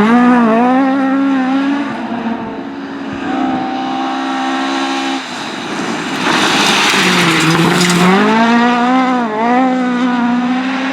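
Historic rally car driven hard on a special stage, its engine revs rising and falling with throttle lifts and gear changes. About six seconds in, a louder rush of noise comes in over the engine for a couple of seconds.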